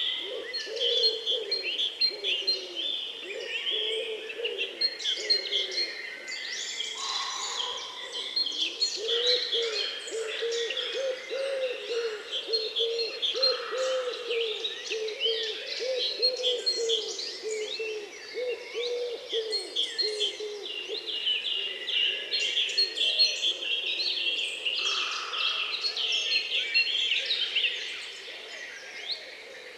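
A chorus of many songbirds chirping and singing over one another, with a low hooting or cooing call repeated in long, quick series beneath them. The chorus thins near the end.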